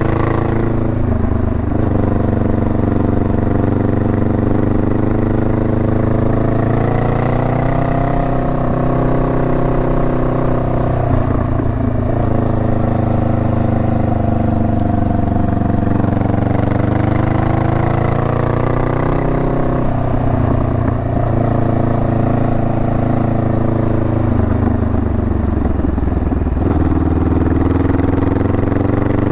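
Honda Rebel 500's parallel-twin engine running under way. Its pitch climbs and drops several times as the rider works the throttle.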